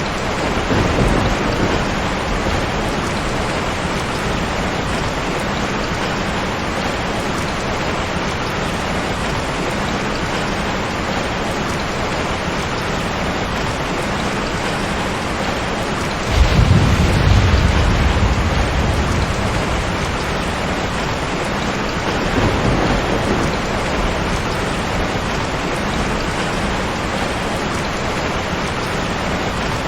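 Steady rain falling, with rolls of thunder: a strong low rumble breaks in suddenly about halfway through and fades over a few seconds, with weaker rumbles about a second in and again a little later.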